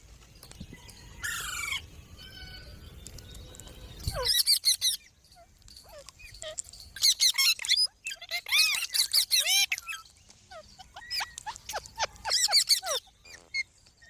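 Pet green parrot calling in several short bursts of high-pitched calls that glide and arch up and down in pitch.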